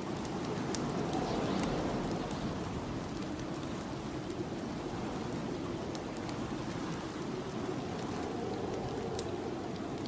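Snowstorm wind blowing steadily, its pitch slowly rising and falling in gusts, over a wood fire crackling with scattered sharp pops.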